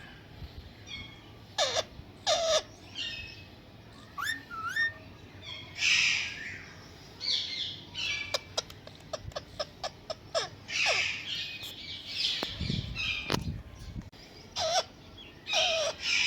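Pet parrot calling: a run of short gliding whistles, chirps and harsh squawks, with a brief low rumble about three-quarters of the way through.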